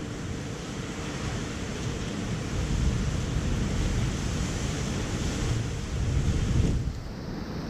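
Typhoon wind blowing hard and gusting against the microphone, a dense rushing hiss over heavy low buffeting. The high hiss drops away abruptly near the end.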